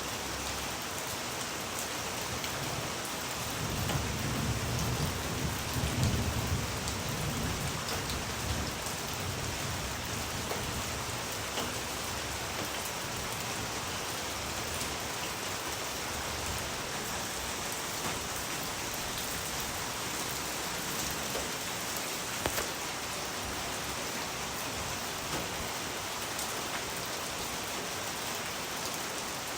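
Steady rain falling, an even hiss, with a low roll of thunder a few seconds in that fades out after a few more seconds.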